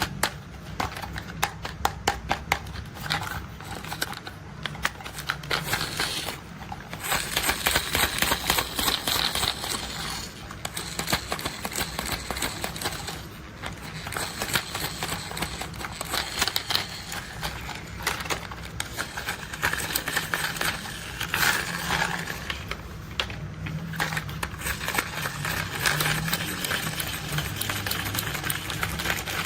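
Rapid clicking and rattling of plastic toy construction vehicles being handled and worked, with a steady low hum underneath.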